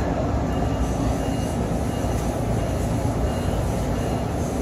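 SMART commuter train running at speed, heard from inside the passenger car: a steady, even running noise that is strongest in the low range.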